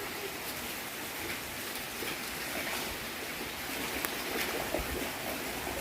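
Rain falling in a steady hiss, with a few faint ticks of drops.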